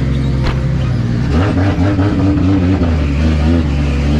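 Car engine idling steadily, then revved up and down several times from about a second in.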